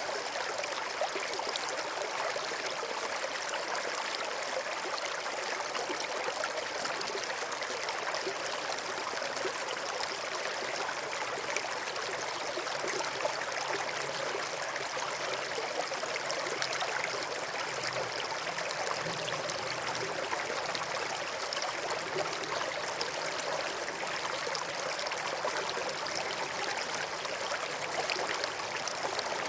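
Small stream flowing steadily over stones, a continuous trickling and gurgling of running water.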